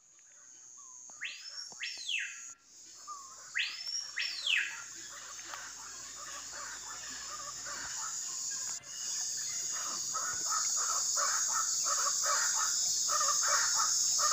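Birds calling over a steady high insect drone: two loud whistles, each sweeping up and then down, in the first few seconds, then fast repeated chattering calls through the second half.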